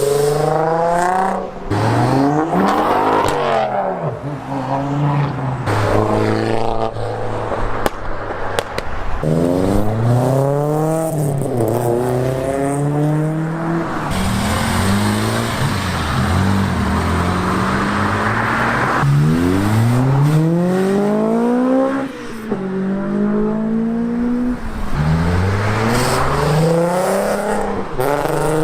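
A stream of cars accelerating past one after another, engines revving up with repeated rising pitch sweeps as each pulls away.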